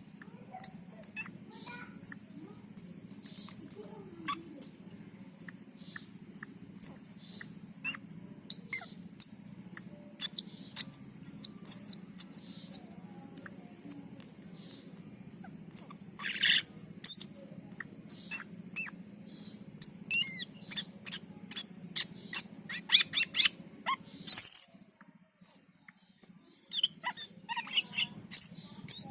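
Cucak keling (Asian glossy starling) singing hard and continuously: a fast jumble of sharp high chirps, clicks and short whistles, with a louder burst about 24 seconds in. A steady low hum runs underneath and drops out for a few seconds near the end.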